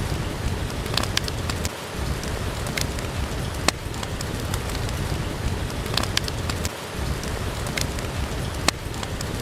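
Steady rain, heavy in the low end, with a wood fire crackling: sharp single pops at uneven intervals, a few each few seconds.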